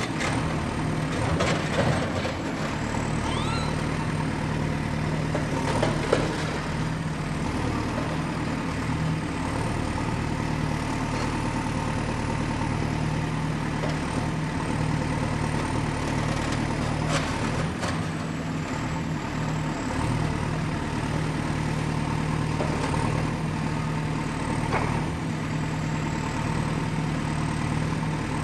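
Excavator diesel engine running steadily under work, with a few sharp knocks at irregular intervals.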